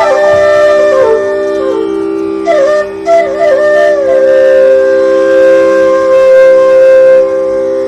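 Background music: a flute melody with quick ornamented turns over a steady drone, settling into a long held note in the second half.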